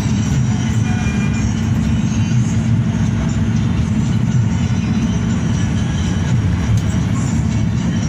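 Hino RK8 bus running at speed, a steady low rumble of engine and road noise.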